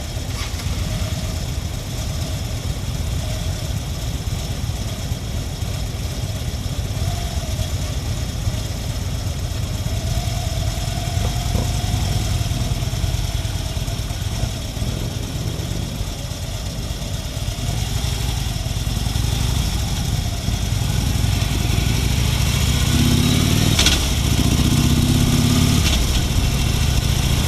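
Motorcycle engines running with a steady low rumble. Near the end they get louder as an engine revs up in pitch.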